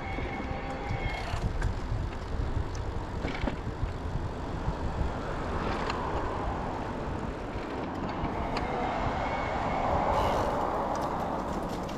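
Riding noise from an e-bike on a street: wind rumbling on the microphone and tyre noise. A car passes about halfway through and another near the end, each swelling and fading.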